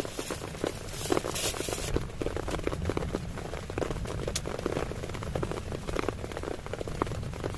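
Heavy rain drumming on a tent's fabric: a dense, irregular patter of drops over a low rumble, with a brief hiss about a second in.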